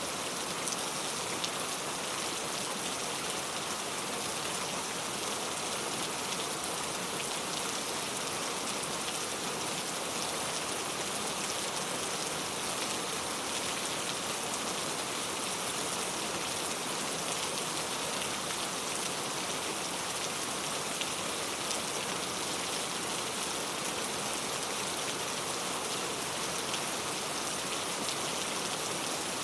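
Steady rain falling, an even hiss with many fine drop patters on surfaces.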